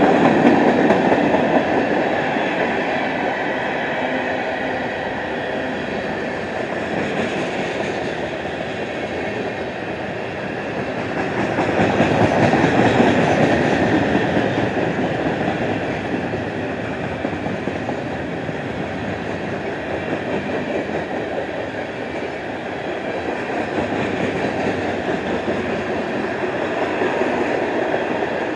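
Freight cars of an empty trash train rolling past on the rails: a steady rumble and rattle of steel wheels, louder near the start and again about twelve seconds in.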